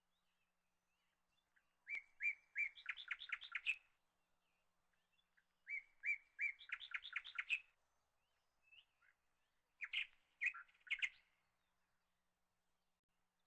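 A songbird singing three short phrases a few seconds apart. Each phrase is a few clear notes followed by a quick run of rapid notes, and the last phrase is shorter.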